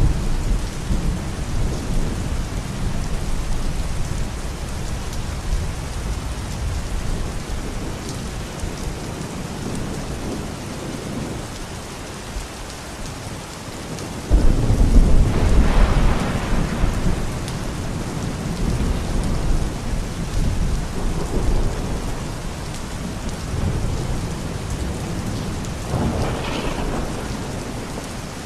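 Steady rain with rolling thunder. A low rumble fades away over the first few seconds. About halfway through, a sudden loud clap of thunder rumbles on for several seconds, and a smaller rumble comes near the end.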